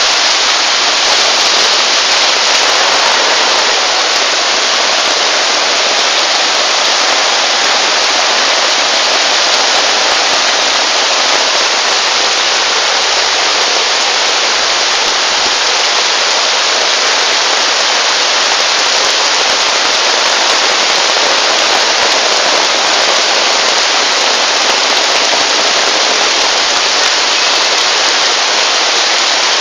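Heavy rain with muddy runoff rushing through a flooded street: a loud, steady hiss of falling and flowing water.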